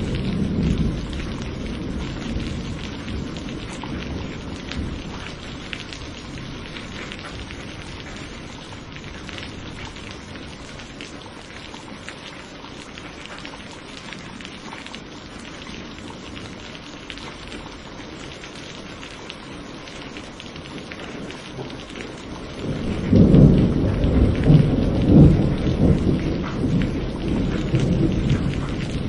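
Steady rain with thunder. A rumble dies away over the first couple of seconds, and about 23 s in a louder thunder rumble breaks in and keeps rolling, with a few sharper peaks.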